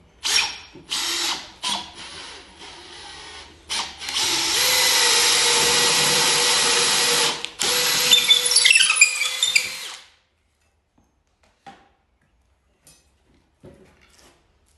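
Electric drill boring peg holes through green oak for drawbored joints. It starts in a few short bursts, then runs steadily for several seconds with a brief pause, and stops about ten seconds in.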